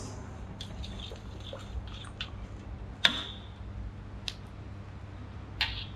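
Scattered light clinks and taps of kitchen utensils and bowls, about six in all, the loudest about three seconds in, over a steady low hum.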